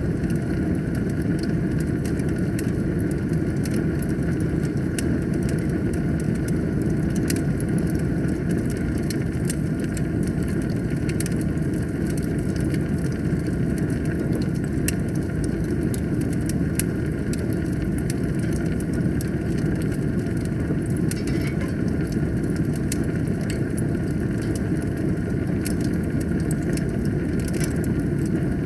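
Wood fire burning in a fireplace: a steady low roar of flames with frequent sharp crackles and pops scattered throughout.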